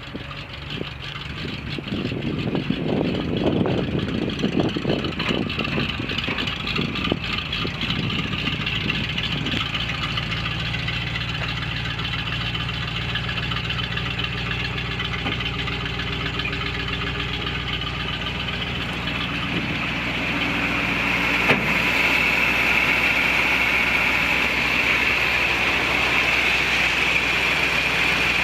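1979 Chevrolet C60 grain truck's engine running, revved unevenly for the first several seconds, then running steadily. About two-thirds of the way through, a steady higher-pitched whine joins it.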